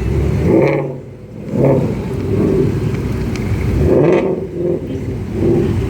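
Ford Mustang engine running, revved twice about three and a half seconds apart, the note rising and falling each time.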